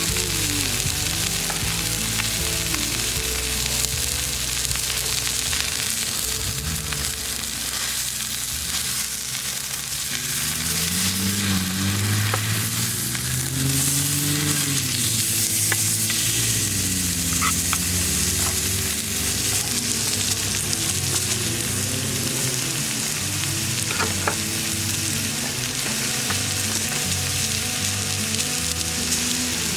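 Steak sizzling in a pan over a campfire: a steady frying hiss with a few small pops.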